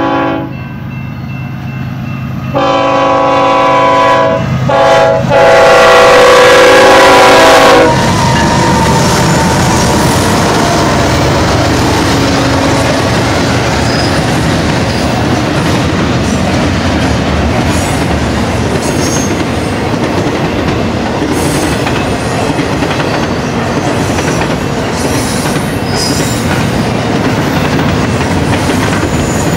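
BNSF diesel locomotive's air horn blowing the grade-crossing signal: the tail of one long blast, then a long, a short and a final long blast, the last the loudest and cutting off about eight seconds in. Then the double-stack intermodal train's cars roll past in a steady rumble with the clickety-clack of wheels on rail joints.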